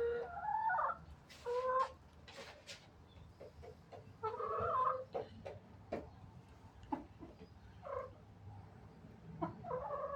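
Domestic hens clucking and calling: about five short pitched calls spaced a second or two apart, with a few light taps between them.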